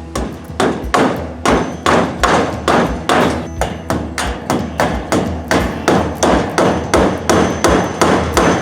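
Hammer blows on wood, an even run of strikes at about two to three a second with no pause.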